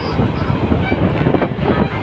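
Janshatabdi Express passenger coach running at speed through a station, heard from inside at the window: a steady, loud rumble and clatter of the wheels on the rails.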